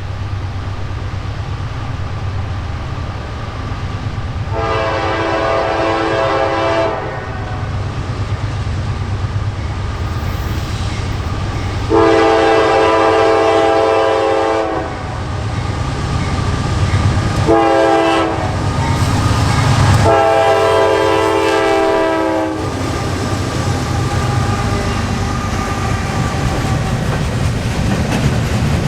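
Norfolk Southern GE AC44C6M diesel locomotive sounding its air horn in the grade-crossing pattern, long, long, short, long, the warning for a road crossing. Under the horn, the locomotive and its container cars rumble past steadily.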